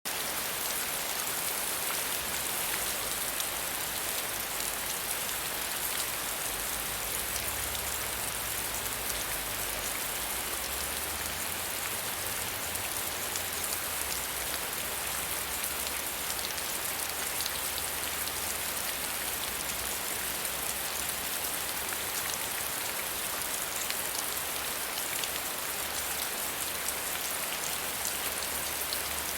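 Steady soft rain falling, an even hiss dotted with many small drop ticks.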